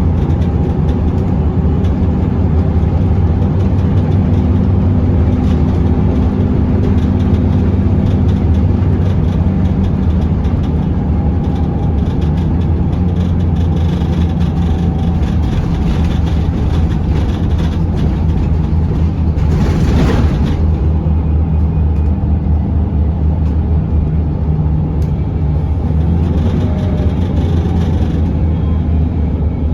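Scania L94UB bus engine running under way, heard from inside the cabin as a steady low drone that shifts a little in pitch as the bus changes speed. A short hiss about two-thirds of the way through.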